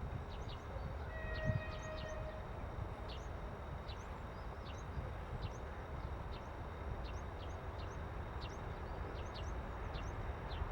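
Low steady rumble of a distant freight train, with small birds chirping repeatedly. About a second in there is a short steady horn-like tone lasting about a second and a half.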